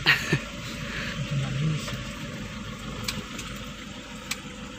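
A 2009 Toyota Innova's turbodiesel engine running steadily under way, heard from inside the cabin as a low rumble with road noise and a couple of faint clicks.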